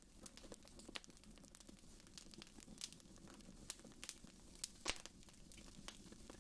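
Wood fire in a fireplace crackling: irregular sharp pops and snaps over a faint, steady low background, the loudest pop about five seconds in.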